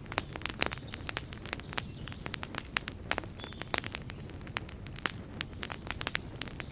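Wood campfire burning with frequent sharp, irregular pops and crackles over a low steady rumble of the flames, with a brief high hiss now and then.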